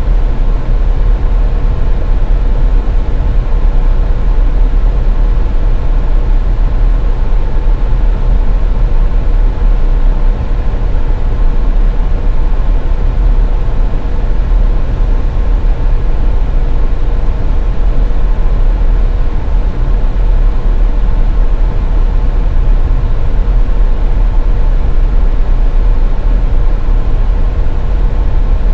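Car driving along a snow-covered highway: steady low rumble of road and engine noise, with a faint steady hum, unchanging throughout.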